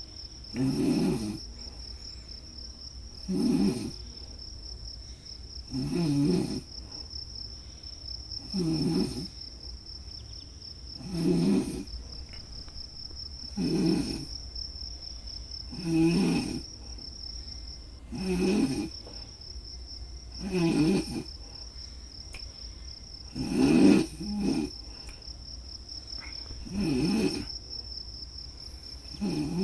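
A person snoring steadily, one snore about every two and a half seconds, over a continuous high-pitched cricket trill that breaks off briefly once midway.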